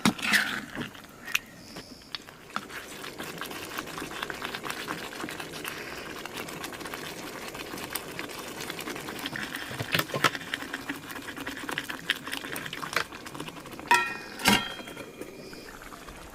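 Butter chicken gravy with chicken pieces bubbling and sizzling in a pan, a fast steady crackle, with a few knocks of the stirring spoon against the pan.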